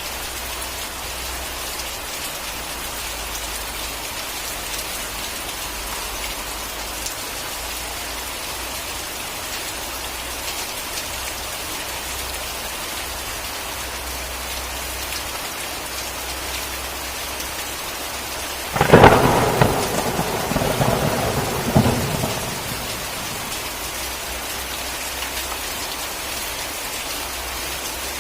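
Steady heavy rain hissing, broken about two-thirds of the way in by a sudden sharp crack of thunder that rattles on for about three seconds before the rain alone returns.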